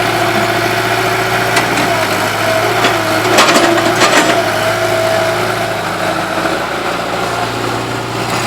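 Volvo excavator's diesel engine running steadily, with a short cluster of knocks about halfway through.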